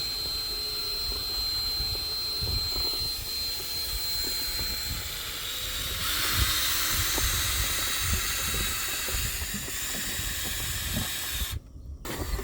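Clothes dryer exhaust air rushing out of the vent opening in a steady hiss, with a high thin whine over the first few seconds. The sound drops out briefly near the end.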